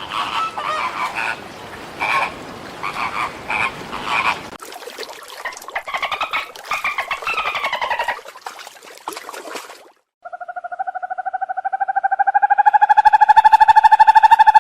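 A sequence of animal calls: first short repeated pulsed calls, then rapid clicky pulsed calls that rise and fall in pitch. After a brief break about ten seconds in comes a long, loud call with a rapid buzzing pulse and strong overtones, slowly rising in pitch.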